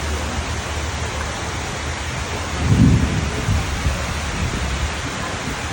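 Steady rain falling, with a short low rumble about three seconds in and a weaker one just after.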